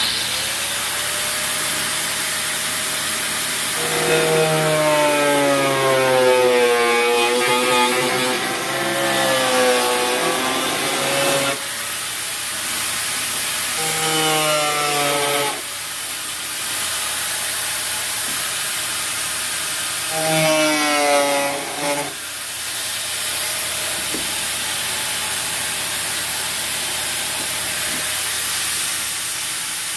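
A saw cutting steadily, with a wavering squeal that rises and falls in pitch and comes and goes three times.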